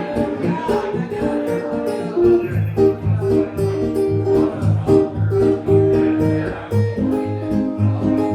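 Live acoustic guitar music, an instrumental passage of picked notes over a low bass line that falls into a steady beat after a couple of seconds.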